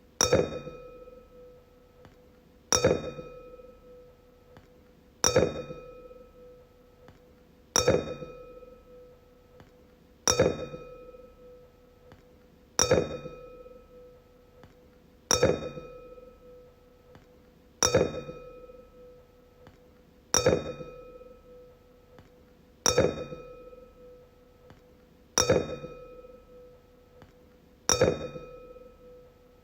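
A wine glass struck again and again, about every two and a half seconds, each tap ringing out in a clear tone that fades before the next.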